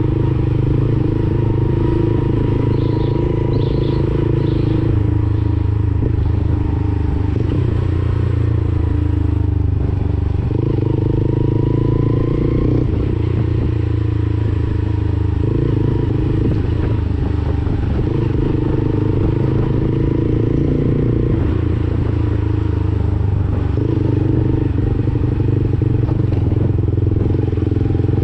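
Lexmoto Assault 125 motorcycle engine running through a Black Widow aftermarket exhaust, with the engine note shifting between steady pitches several times as the throttle or gear changes.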